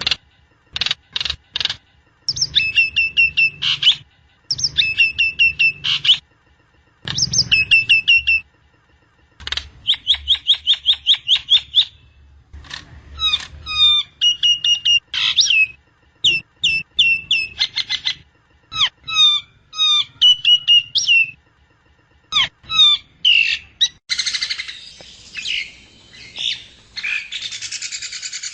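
Nias hill myna calling in phrases of rapid repeated chirps and clear whistles, with short silent gaps between phrases. Near the end it turns to harsh, raspy calls.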